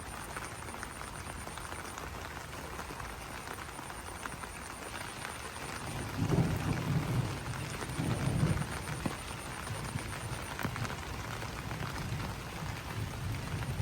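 Rain falling on banana leaves: a steady patter of many small drops. Low rumbles swell twice in the middle, and a faint, high, rapid pulsing trill comes and goes.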